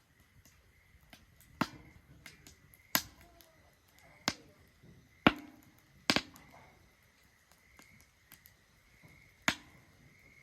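Wood fire crackling in a Solo Stove Ranger fire pit: irregular sharp pops and snaps from the burning wood, about six loud ones and several small ticks between them.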